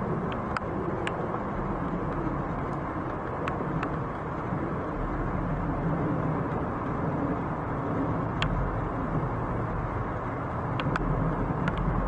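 Steady low rumble of distant engines, with a few short sharp ticks scattered through.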